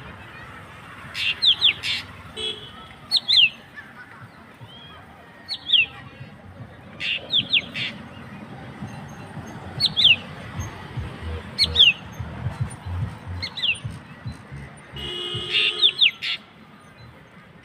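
A bird calling over and over: short, high notes that slide downward, given in twos and threes every second or two. About fifteen seconds in, a harsher, buzzy call joins briefly.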